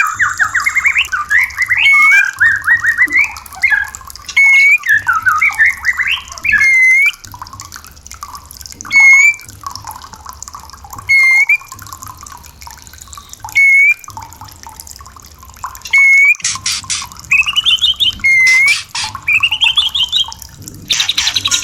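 White-rumped shama (murai batu) calling: quick trilled, sweeping phrases at first, then single hooked whistled notes repeated about every two seconds, then trills again near the end.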